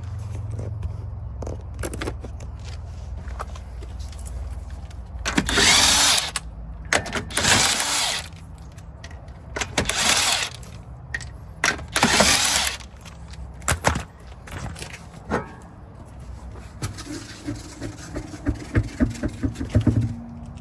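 Power tool, likely an impact wrench, in about five loud bursts of roughly a second each, loosening the Honda Accord's axle nut and lug nuts. Scattered metallic clicks and rattles of sockets and tools follow near the end.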